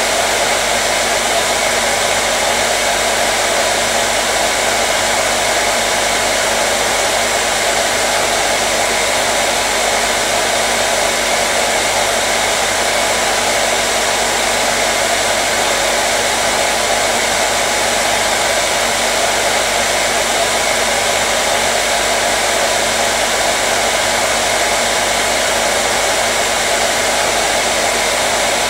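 Hair dryer running continuously, a steady loud rush of blown air with a faint motor hum and no change in speed, used as white noise to soothe a colicky baby.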